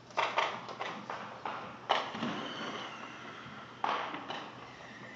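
Fireworks bursting: a series of sharp bangs, five in the first two seconds and two more near the end, each fading away quickly.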